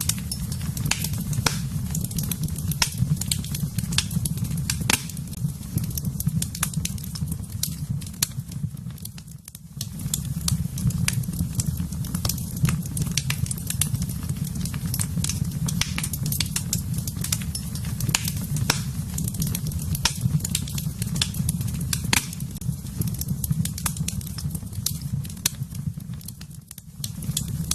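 Wood fire in a fireplace crackling, with frequent irregular sharp pops and snaps over a steady low rumble. The sound dips briefly twice.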